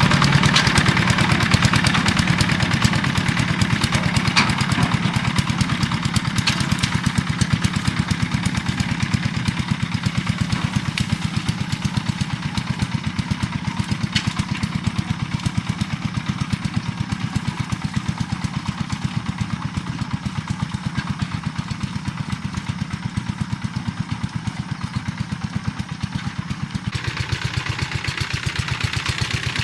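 A small engine running steadily with a fast, even chugging beat; its sound brightens a little near the end.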